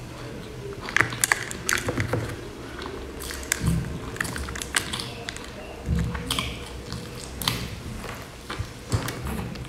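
Close-miked eating of a crumb-coated fried pastry: chewing with many sharp crackling crunches, plus a few soft low thuds.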